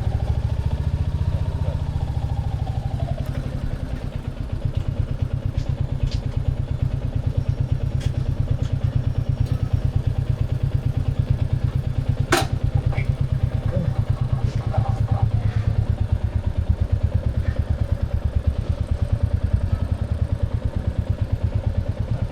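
Royal Enfield Classic 350's single-cylinder engine running steadily, its exhaust thumping in quick even pulses, with a single sharp click about twelve seconds in.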